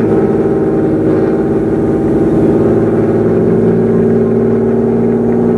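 Nissan 370Z's 3.7-litre V6 engine running steadily without revving, an even, unchanging engine note.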